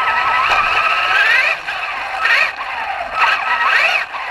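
Traxxas RC truck motor whining, its pitch climbing and dropping again and again as the throttle is worked.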